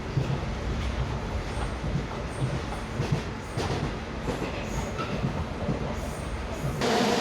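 Rusich metro train running between stations: a steady rumble of wheels on rail with irregular low knocks. Near the end the sound gets louder and a steady pitched hum sets in.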